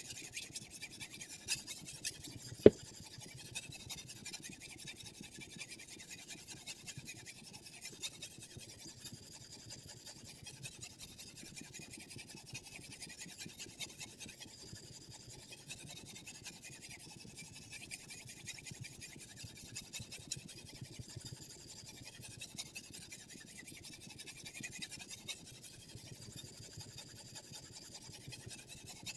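Sharpening stone on a guided knife-sharpening system rubbing along the steel edge of a chef knife in continuous scratchy strokes, with one sharp click a little under three seconds in.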